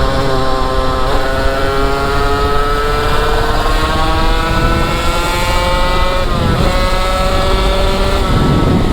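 Motorcycle engine pulling under way, its pitch climbing slowly, then dropping sharply at a gear change about a second in and again about six and a half seconds in. A steady rush of wind runs underneath.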